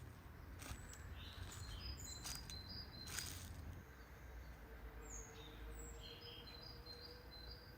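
Small birds chirping in short high notes over a faint low rumble, with a few sharp knocks in the first half.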